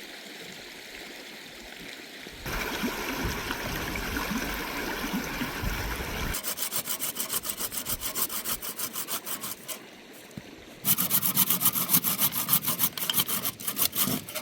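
Hand saw cutting wood in quick, even back-and-forth strokes. The strokes stop for about a second and resume louder near the end. Before them comes a few seconds of steady rushing noise and then rougher scraping.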